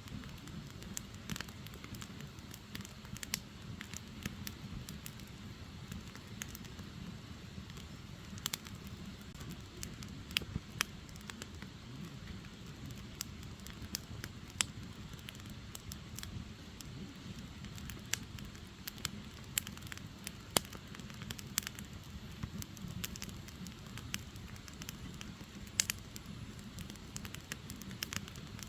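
Firewood burning, a steady low rush of flame with sharp pops and crackles at irregular intervals.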